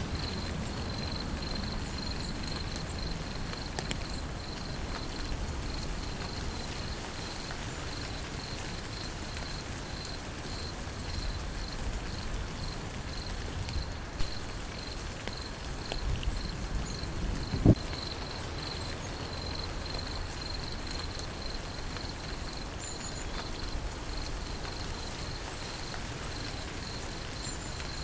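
Steady rain with an insect trilling in quick, even pulses at a high pitch throughout. A few single drip-like knocks stand out, the loudest a little past halfway.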